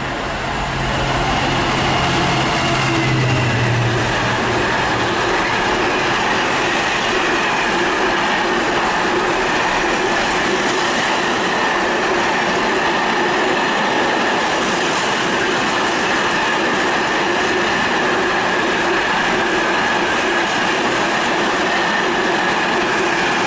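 Class 66 diesel-hauled freight train passing through: the locomotive's engine drone fades over the first few seconds, then a long train of wagons rolls by with a steady noise of wheels on rail and a thin high whine.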